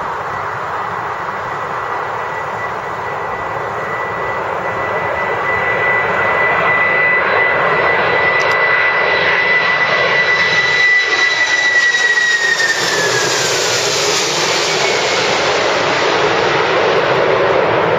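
Boeing 767-300ER's twin turbofan jet engines on landing approach: a steady high whine over a broad roar that grows louder, then the whine drops in pitch about twelve seconds in as the airliner passes by, leaving the roar.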